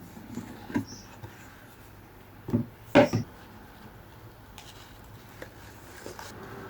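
A few short knocks and clatters of objects being handled, the loudest pair about three seconds in.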